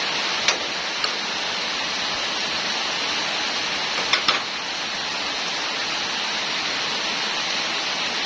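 Steady rushing hiss, like rain or running water, with a few sharp clicks: one about half a second in, one at about a second, and a quick cluster around four seconds.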